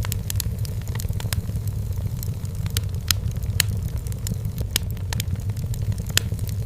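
Wood fire burning in a fireplace: irregular sharp crackles and pops from the firewood over a steady low rumble of the flames.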